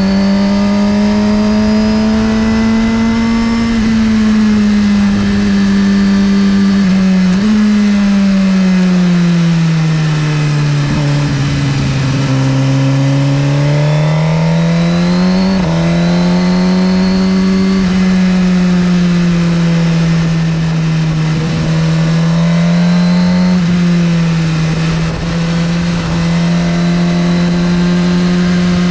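2017 Suzuki GSX-R1000R's inline-four engine heard on board while riding, its note rising and falling with throttle and gear changes. Near the middle the pitch falls slowly for several seconds, then climbs again and steps down at a shift.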